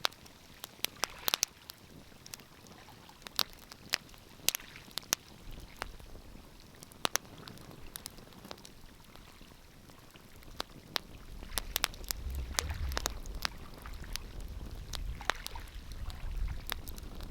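Wood fire crackling, with irregular sharp pops and snaps. A low rumble comes in about a third of the way through and grows louder in the second half.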